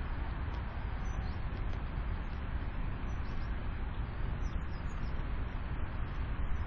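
Steady low rumble with an even hiss above it, without any distinct calls or knocks.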